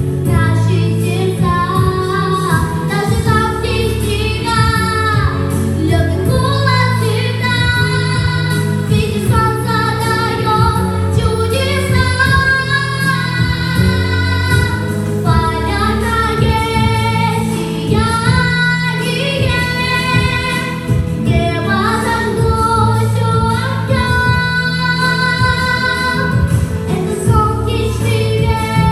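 A song: a female voice singing over instrumental backing with sustained low notes.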